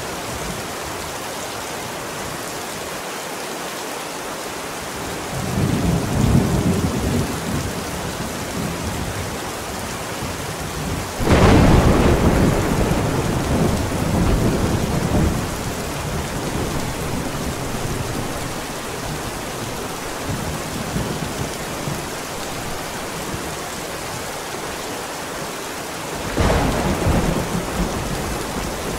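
Steady heavy rain with rolling thunder: a rumble builds about five seconds in, a louder clap breaks sharply about eleven seconds in and rolls off over several seconds, and another rumble starts near the end.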